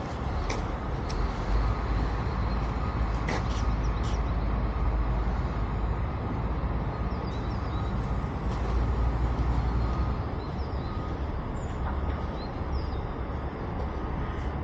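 City street traffic: a deep, continuous rumble of passing vehicles that swells for several seconds and then eases. A few sharp clicks, and faint short high chirps near the middle and end.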